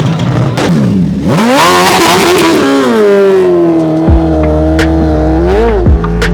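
A vehicle engine revved hard: the pitch climbs sharply, holds high for a couple of seconds, then drops back and settles, with a second quick rev near the end and a few sharp pops.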